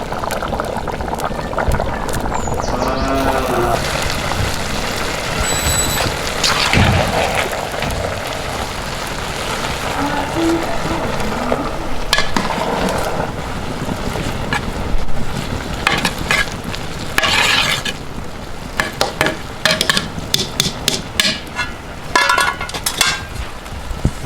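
Cooking over a campfire: a steady sizzling, frying noise, with a run of sharp clicks and knocks in the second half.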